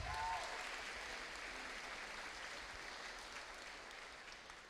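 Audience applauding, a patter of many hands that slowly fades away.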